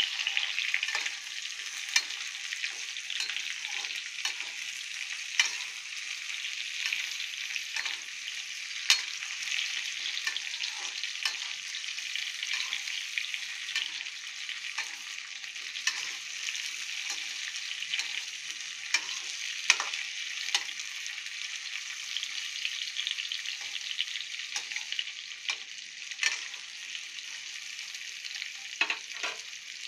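Raw mango slices and whole spices sizzling steadily in hot oil in a kadhai, stirred with a spatula that scrapes and clicks against the pan many times.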